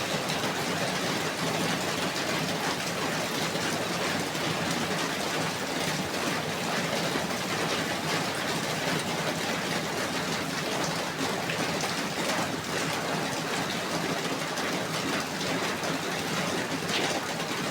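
Steady falling rain: an even hiss of many drops hitting a surface, with small individual drop patters scattered through it.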